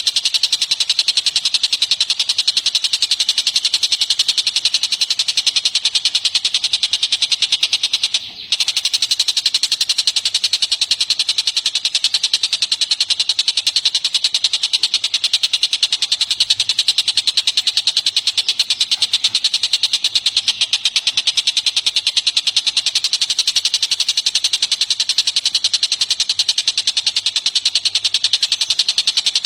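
Bird song from a songbird training recording: a continuous, very rapid high trill that pulses many times a second without pause. It breaks off for a split second about eight seconds in, then carries on.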